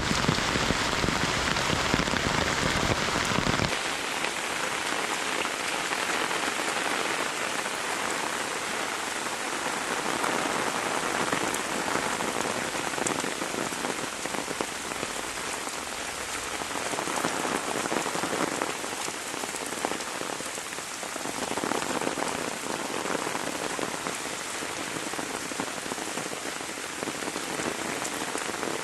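Heavy rain falling steadily. For the first few seconds a low rumble of wind runs under it and stops abruptly about four seconds in, leaving the even hiss of the rain, which swells and eases slightly a few times.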